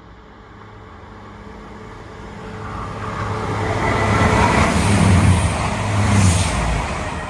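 Diesel passenger train approaching and passing at speed. Engine drone and wheel-on-rail noise build up, are loudest around four to six seconds in, then fade away.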